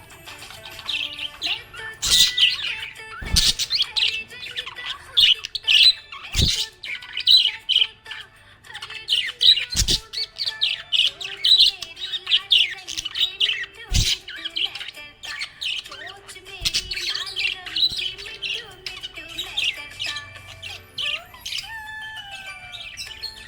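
Budgerigar chirping and warbling in rapid, high twittering, with a few sharp clicks now and then.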